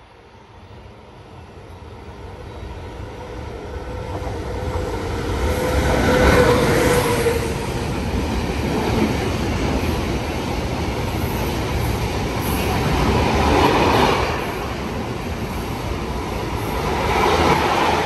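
A train passing through without stopping, growing steadily louder over the first six seconds, then the continuous rumble of wheels on the rails as it goes by, swelling again near the middle and near the end.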